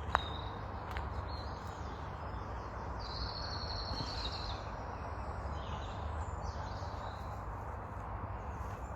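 Woodland birds calling over a steady outdoor background hiss, with one clearer call about three seconds in lasting just over a second. A single sharp click comes right at the start.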